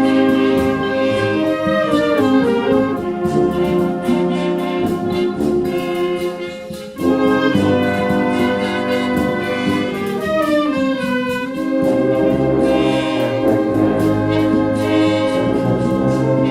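Wind band playing, brass to the fore in sustained chords. The sound thins about six seconds in, and the full band comes back in strongly about a second later.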